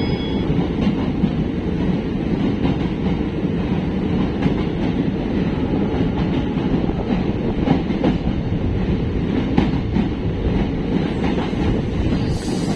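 Passenger train running along the track: a loud, steady rumble of wheels on rails, with faint clicks of the wheels over the rail joints.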